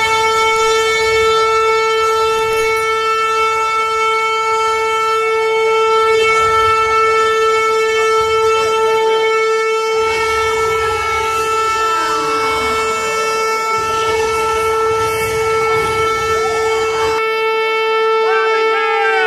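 A loud, steady horn-like tone held without a break at one pitch.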